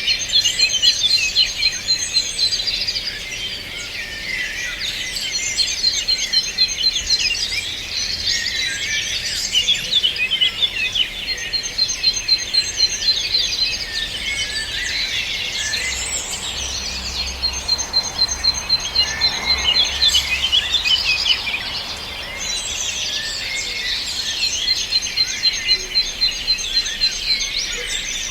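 A chorus of many songbirds chirping and singing together. A fast, even trill comes back four times over the dense chatter.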